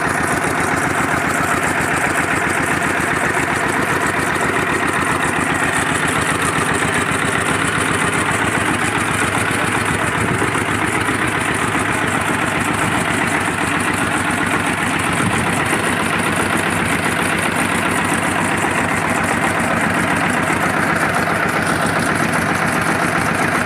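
Soviet DT-14 tractor's single-cylinder diesel engine running steadily at idle, a fast, even run of firing pulses.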